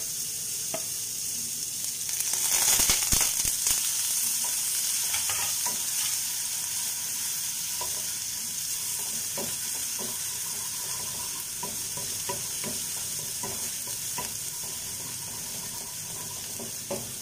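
Minced ginger and garlic sizzling in hot oil, stirred with a wooden spatula that clicks against the pan now and then. The sizzle swells loudest about two to three seconds in, then settles to a steady hiss.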